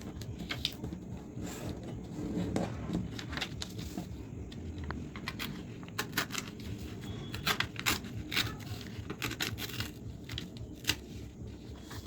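A sheet of paper being torn by hand along a folded crease and creased flat, with irregular short rips, crackles and rubbing scrapes.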